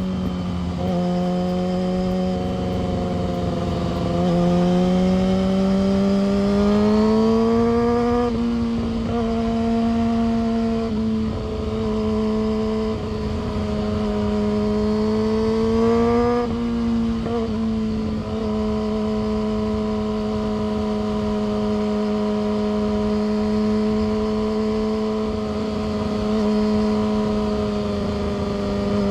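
Yamaha R6 inline-four engine running under way. It pulls up in pitch twice, each pull ending in a quick drop as it shifts up, about a quarter of the way in and again just past halfway, then holds a steady cruising pitch.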